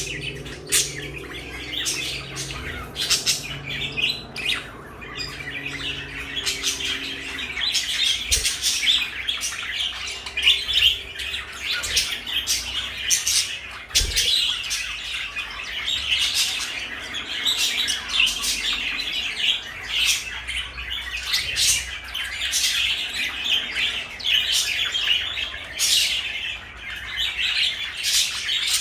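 Pet parakeets chattering and warbling continuously, with many short chirps and clicks.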